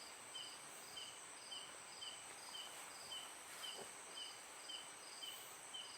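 Night insects: a steady high-pitched insect drone, with a cricket chirping in an even rhythm of just under two chirps a second.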